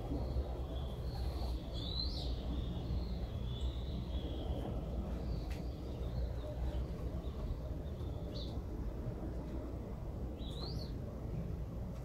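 Birds chirping: scattered short chirps, a few rising quickly in pitch, every few seconds over a steady low rumble.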